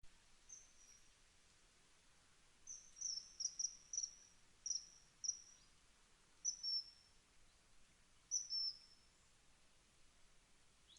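A small bird calling: short, high, thin chirps that drop slightly in pitch, one near the start, a quick run of about seven a few seconds in, then two pairs of chirps later.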